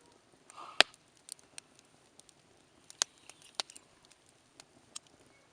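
Wood campfire crackling, with scattered sharp pops. The loudest pop comes a little under a second in, and two more stand out around three seconds in.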